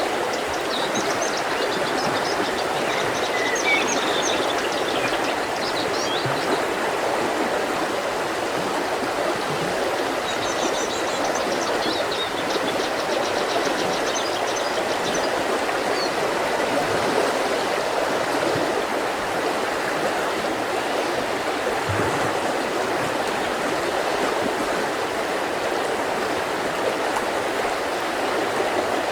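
Mountain river flowing over rocks with a steady, even rush. Small birds chirp and sing above it during the first few seconds and again about ten seconds in.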